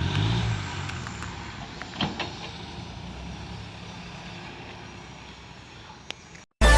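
Dump truck engine running, growing fainter, with a few sharp knocks along the way. It cuts off abruptly near the end and loud electronic music starts.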